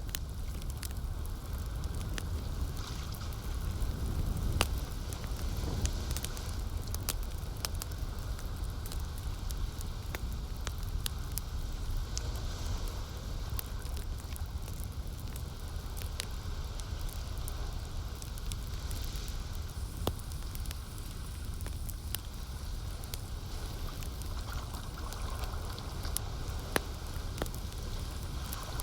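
Campfire burning with frequent sharp crackles and pops over a steady low rumble of flames and lake water.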